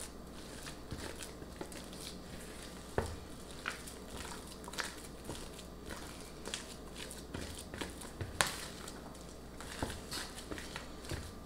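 A spatula folding whipped topping into a soft cream cheese mixture in a mixing bowl: quiet, irregular squishy scrapes and light clicks against the bowl, a little sharper twice, about three seconds in and again past eight seconds.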